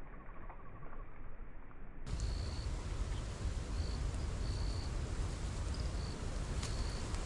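Strong wind buffeting the microphone, a steady low rumble that gets louder after a cut about two seconds in. Above it, short high-pitched calls repeat several times, with a single click near the end.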